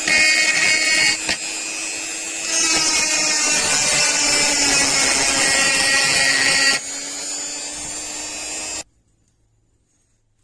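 Small power tool running with a high-pitched whine, alternately louder and quieter, then stopping suddenly about nine seconds in.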